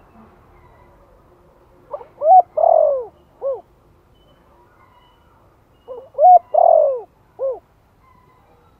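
Spotted dove cooing in the 'Thổ' voice style. There are two identical phrases about four seconds apart, each a couple of quick short coos, one longer arched coo and a short final coo.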